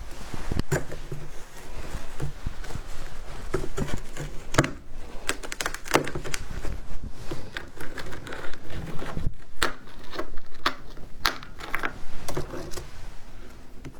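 Humidifier ice being bitten and chewed close to the microphone: a continual run of sharp crunches and crackles.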